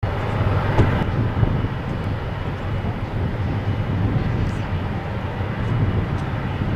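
Airbus A330's Rolls-Royce Trent 700 turbofan engines running: a steady jet rumble with a faint high whine over it.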